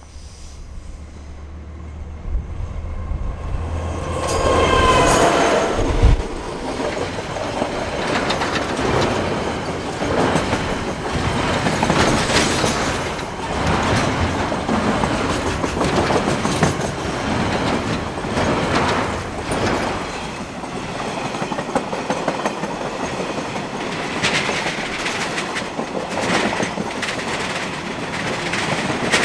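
A train passing close by: a low rumble builds over the first few seconds and a short pitched sound comes about five seconds in. After that comes a steady clickety-clack of wheels over rail joints as the cars roll past.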